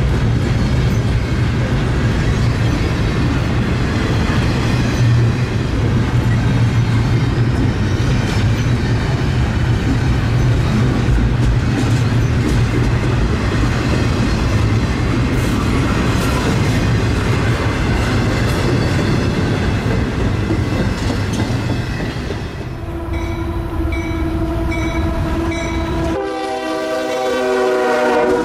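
Diesel locomotive and train running past with a loud, steady engine rumble and clicking of wheels over the rail joints. In the last few seconds a locomotive air horn sounds, a chord of several steady tones.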